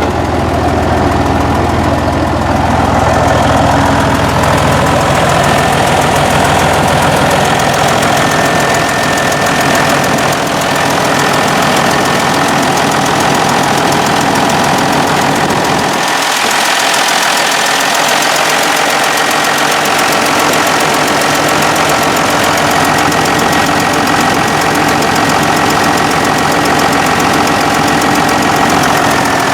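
John Deere 6068 six-cylinder diesel running steadily at idle after a thermostat replacement and coolant refill, run to check for leaks. About sixteen seconds in, the deep low hum drops away and the sound turns brighter and hissier.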